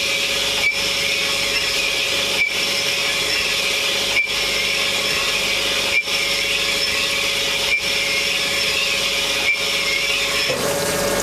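A powered tool running steadily with the trigger held down. Its sound dips briefly at an even beat, about every second and three quarters, then changes abruptly near the end.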